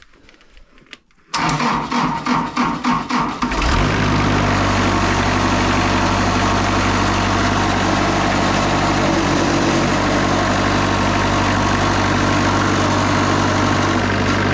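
Engine of a Wood-Mizer LT40 Super Hydraulic band sawmill being started: about a second in it cranks for roughly two seconds with a pulsing beat, then catches and runs steadily.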